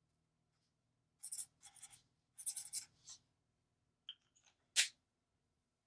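Alcohol marker stroking over paper in several short scratchy passes, blending the seam between two grays. A small click comes about four seconds in, then a sharper, louder click shortly after.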